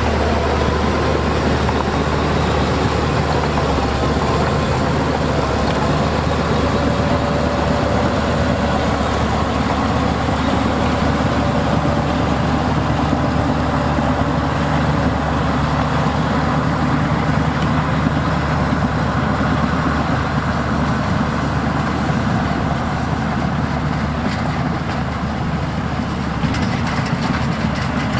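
Heavy diesel earthmoving machinery running steadily at work.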